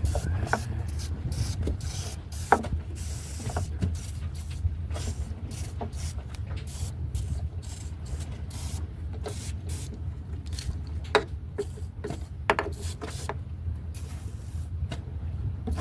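An aerosol can of CRC penetrating oil sprayed in many short bursts into a hatch mechanism, over a steady low rumble of wind on the microphone. There are a few knocks along the way.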